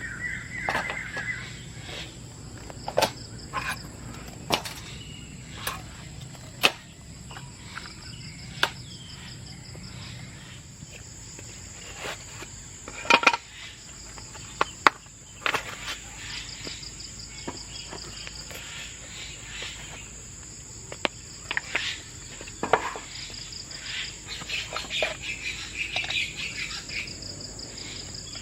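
Insects trilling steadily, with a pulsing cricket-like chirp, under scattered sharp clicks and knocks; the loudest knocks come about 13 and 15 seconds in.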